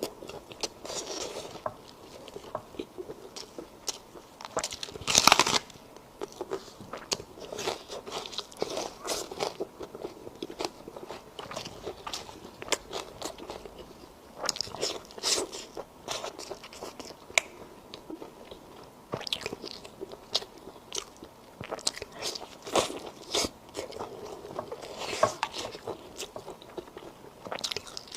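A person biting and chewing food in irregular short bites, the loudest about five seconds in.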